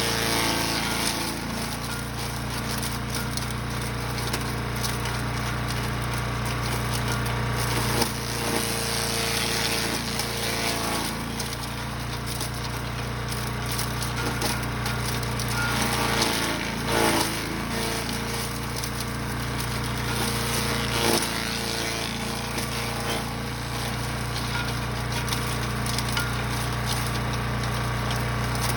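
Brush Master 3-in-1 wood chipper/shredder's gas engine running steadily, with irregular cracks and louder rushes as material is fed through and chipped, the loudest about halfway in.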